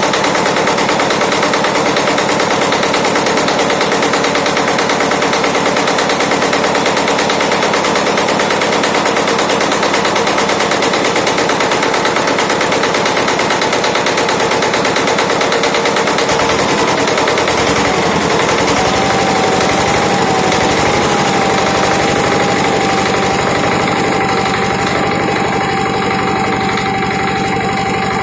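Yanmar Prince YT500 diesel tiller's small single-cylinder diesel engine running, a rapid, even clatter of firing strokes. About two-thirds of the way through a steady whine comes in and the sound eases slightly.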